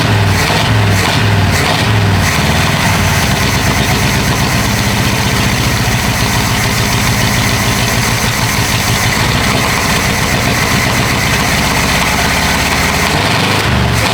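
Chevy 350 small-block V8 in an old pickup, running steadily at idle.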